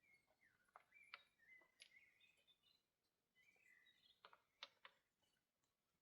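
Very faint bird chirps and short calls over near silence, with a few soft sharp clicks about a second in, near two seconds, and in a quick cluster around four and a half seconds in.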